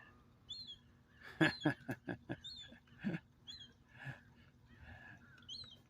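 Seagull calling: a quick run of about six short, sharp calls, then one more, over a thin high peeping that repeats every half second or so.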